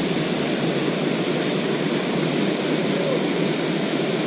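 Waterfall on a mountain trout stream, rushing water running steadily.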